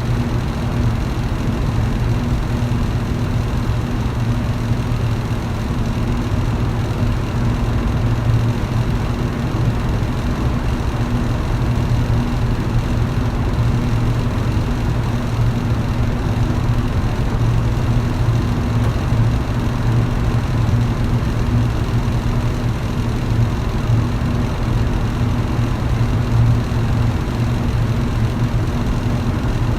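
Electric fan running steadily: a low, even motor hum under a constant rush of air.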